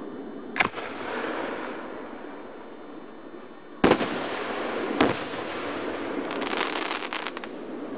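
Aerial firework shells bursting: a bang about half a second in, two louder bangs about a second apart near the middle, then a spell of rapid crackling as the stars burst.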